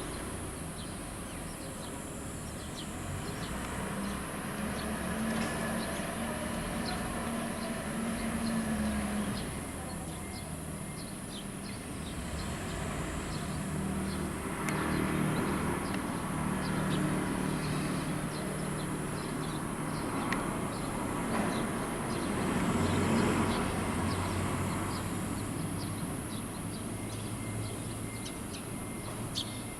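Low, steady motor-vehicle engine drone that swells and fades over several seconds, with faint short bird chirps scattered throughout.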